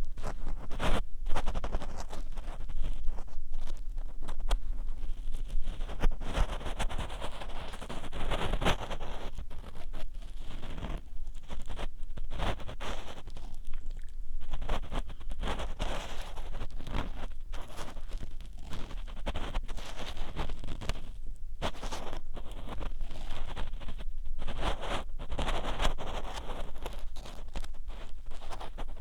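Ear pick scraping and rubbing inside the ear of a binaural dummy-head microphone: a dense, continuous crackly scratching made of many small clicks, swelling and easing in bouts of a few seconds.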